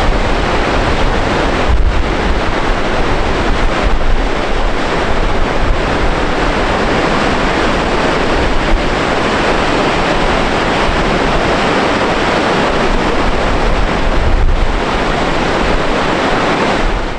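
Gullfoss waterfall's loud, steady rush of falling water, with wind buffeting the microphone.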